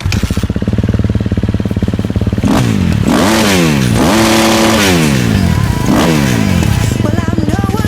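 Dirt bike engine running at a steady pitch, then revved up and down several times, its pitch rising and falling in repeated sweeps.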